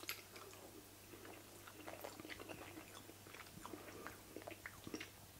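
A man chewing a forkful of mujadara (rice, lentils and caramelized onions): faint, irregular small clicks of chewing, after a single click as the fork goes into the mouth at the start.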